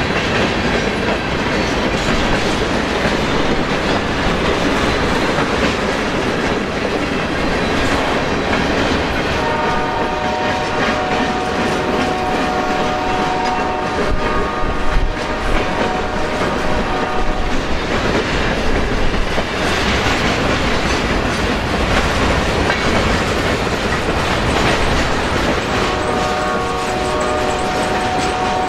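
Long freight train's boxcars rolling slowly past, wheels clacking over the rail joints, with wind buffeting the microphone. Twice a sustained high multi-note tone rides over it: for several seconds from about a third of the way in, and again near the end.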